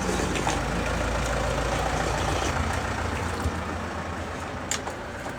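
A heavy vehicle's engine rumbling close by, dying away after about three and a half seconds, with a sharp click near the end.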